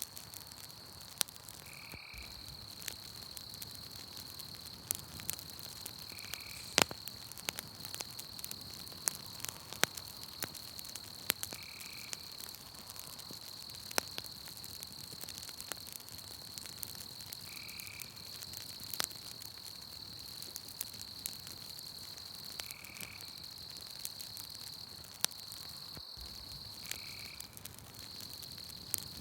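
Campfire crackling with scattered sharp pops, over night-forest ambience: a steady high-pitched trill runs throughout, and a short call repeats about every five to six seconds.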